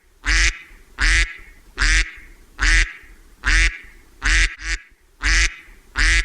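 Duck quacking over and over, about eight loud quacks at an even pace of a little more than one a second.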